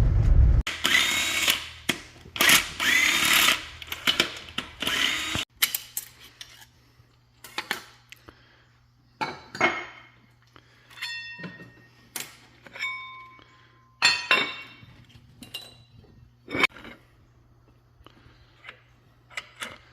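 A handheld power tool whirring in three bursts during the first five seconds, its pitch rising and falling, as fasteners come out of a transmission being torn down. Metal parts then clink and knock as they are handled, a few ringing briefly when struck.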